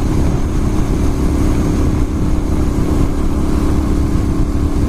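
Ducati Monster S2R 1000's air-cooled L-twin engine running steadily at a cruise, with no change in revs.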